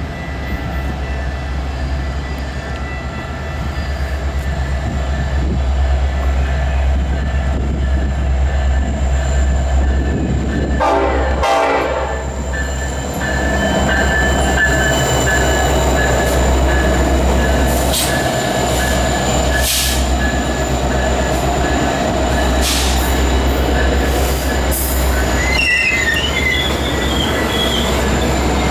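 Metra commuter diesel locomotive running with a steady deep rumble, with a short horn blast about eleven seconds in. Near the end come a few high, wavering squeals, typical of steel wheels squealing on the rail.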